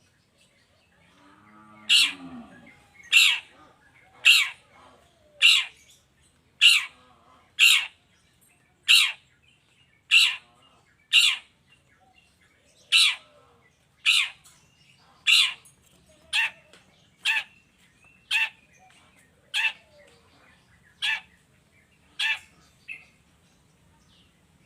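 Long-tailed shrike (pentet) giving a sharp, quickly falling call over and over, about once a second, some eighteen times.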